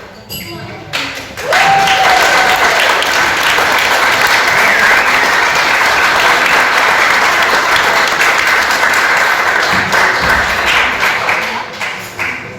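Wedding reception guests applauding at the end of a speech. The clapping starts suddenly about a second in, holds steady, and tapers off near the end.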